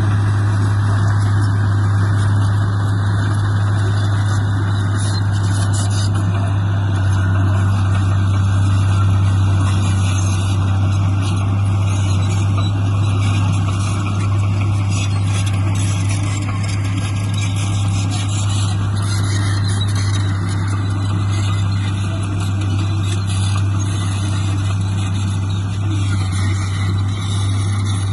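Heavy diesel engine of earthmoving machinery running steadily, with a constant deep drone.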